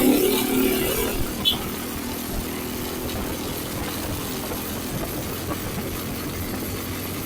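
Motorcycle engine heard from the rider's seat, loud at first and then easing off after about a second to a steady low running, near idle. There is one brief click about a second and a half in.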